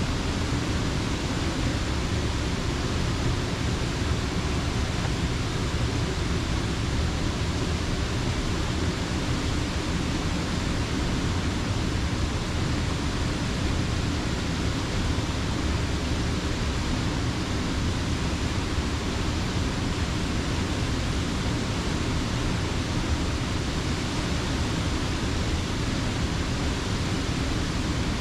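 Creek water spilling over a mill dam: a steady, dense rush that does not change.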